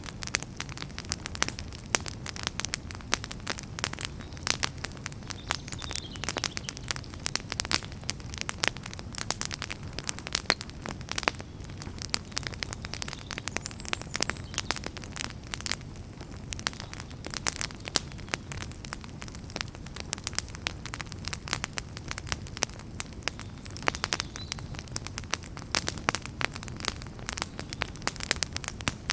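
Wood campfire crackling, with many irregular sharp pops and snaps of burning firewood over a low steady rumble of the flames.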